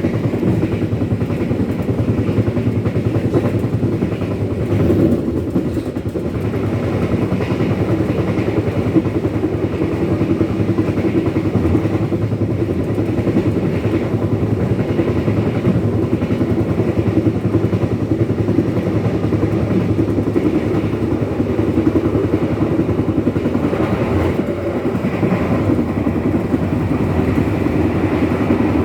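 Passenger train running along the track, a steady rumble with fast clatter.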